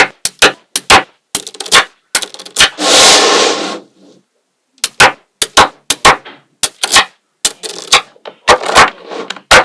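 Small neodymium magnetic balls clicking sharply as they snap together, in quick irregular clicks, with a longer rattling clatter of many balls about three seconds in.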